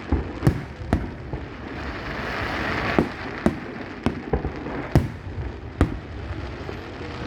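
Fireworks display: aerial shells bursting with about eight sharp bangs at uneven spacing, over a continuous hiss that swells and fades midway.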